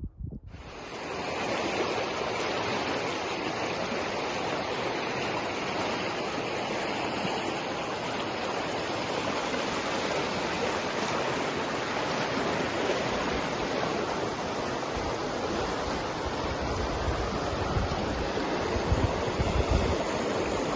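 Steady rush of flowing water, fading in over the first second or so and then holding level.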